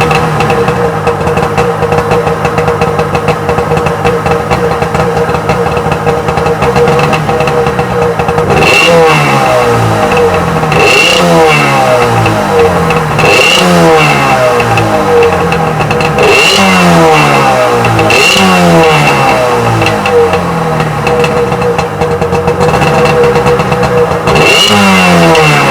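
Freshly rebuilt Sea-Doo XP 720 two-stroke twin engine running on its first heat cycle with the driveline disconnected. It idles steadily, then from about a third of the way in is revved in about six quick throttle blips that rise and fall back to idle.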